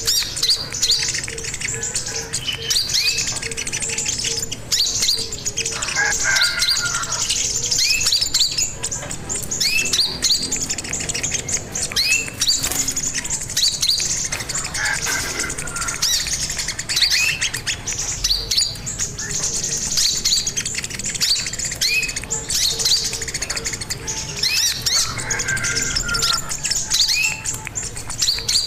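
Sogon (sogok ontong) bird calling continuously: a string of sharp, high chirps and short rising notes, repeated about once a second, over a steady high hiss.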